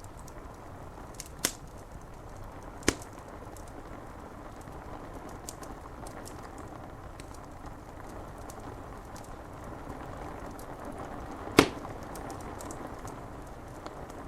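Wood fire crackling, with three sharp loud pops, about a second and a half in, about three seconds in and near the end, and many small ticks, over a steady hiss of rain.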